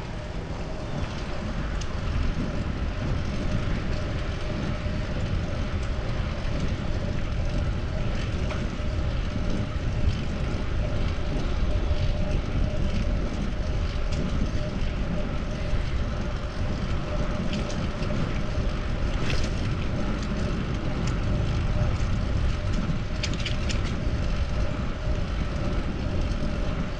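Steady wind rush and road rumble from riding a fixed-gear bicycle, with a few faint clicks in the second half.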